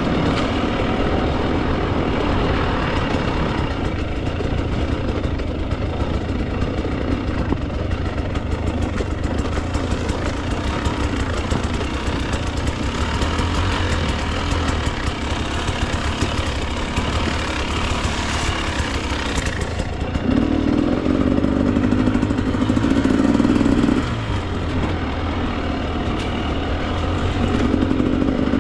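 Husqvarna TE 300 two-stroke dirt bike engine running under changing throttle on the trail, with two spells of harder revving, about twenty seconds in and again near the end.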